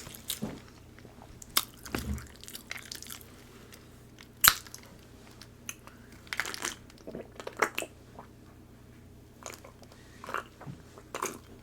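Close-miked eating of a seafood boil: irregular chewing and biting noises, short clicks and crunches scattered through, the sharpest click about four and a half seconds in.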